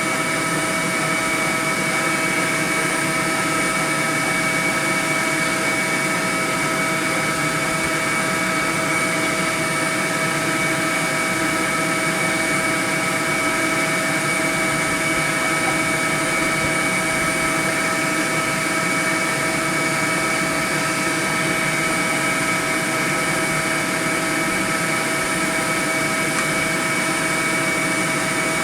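Honeybee swarm buzzing: a dense, steady drone of many wings with a few constant pitched tones through it.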